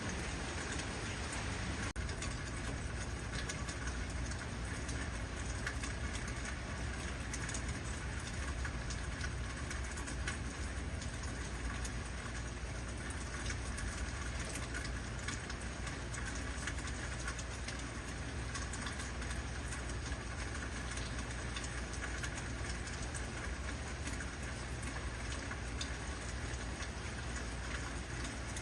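Heavy rain falling steadily, an even hiss of drops, with a low steady rumble underneath.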